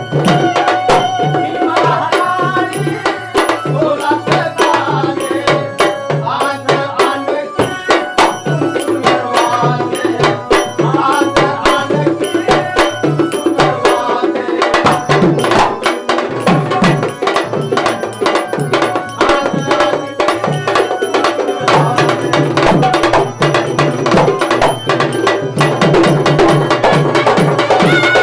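Instrumental passage of Marathi tamasha folk music: a hand drum keeps a steady, fast beat under sharp percussion strokes and a melodic line. The low drum drops out briefly about halfway through, then comes back.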